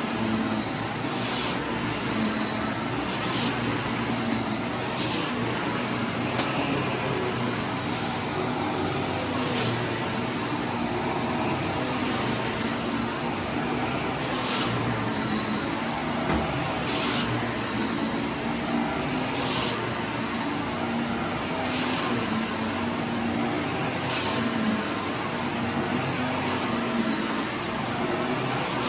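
Vacuum cleaner running steadily with a low hum and a faint high whine. A short hissy swish rises over it every few seconds.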